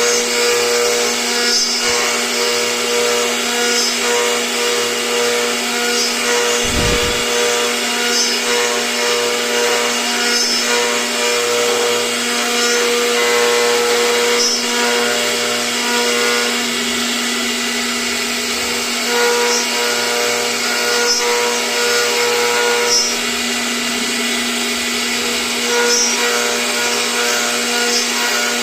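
CNC router spindle running steadily while carving, a constant motor whine over cutting noise, the upper part of the whine coming and going every few seconds as the bit moves through the cut.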